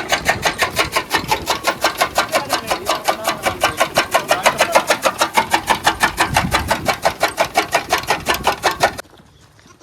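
Bull-driven chaff cutter running: a steady, rapid mechanical clatter of about six to seven clacks a second, which stops abruptly near the end.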